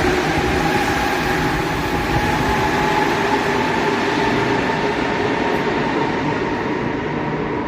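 Santiago Metro NS-16 rubber-tyred metro train running past, a steady rolling noise with a humming electric motor whine. It eases slightly near the end.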